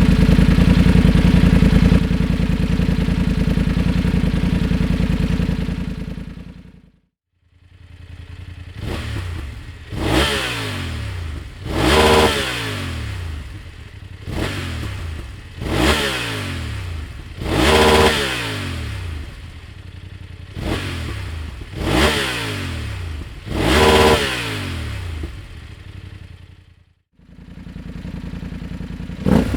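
A 2024 BMW F800GS's parallel-twin engine is heard through its exhaust, first running steadily and loud for about six seconds. After a short break it idles, and the throttle is blipped repeatedly, about every two seconds. Each rev rises quickly and falls back to idle.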